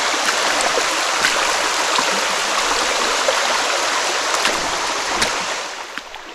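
Creek water rushing over a small waterfall: a steady hiss of flowing water that fades near the end.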